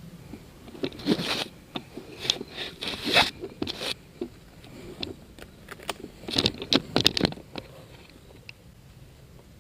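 Irregular crunching and scraping, in two bursts, one about a second in and one around six seconds in, with scattered single clicks between them.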